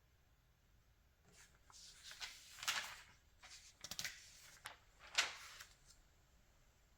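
Glossy magazine pages being handled and turned: a run of quiet paper rustles and flicks, the loudest about two and a half seconds in and again about five seconds in.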